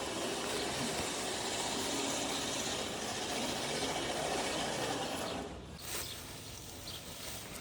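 A steady rushing noise that drops away suddenly about five and a half seconds in, leaving quieter outdoor background.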